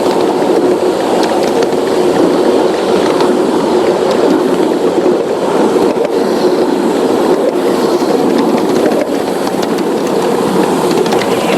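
Model train running along the track, a steady rumble of wheels and motor with faint clicks over the rail joints.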